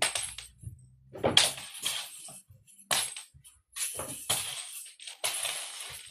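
A jingling cat toy rattling in irregular bursts as it is batted about, about six bursts with short quiet gaps between them.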